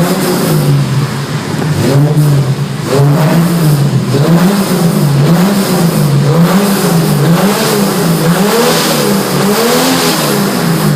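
Chevrolet Opala Diplomata's straight-six engine revved loudly at a standstill: a couple of slower revs, then quick throttle blips rising and falling about once a second.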